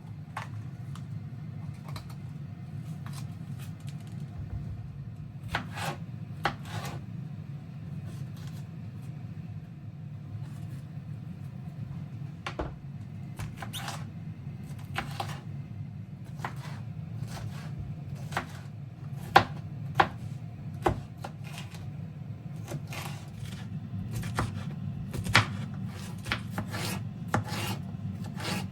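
Food preparation on a wooden board: irregular scraping and rubbing strokes with light knocks, a few sharper knocks in the second half, over a steady low hum.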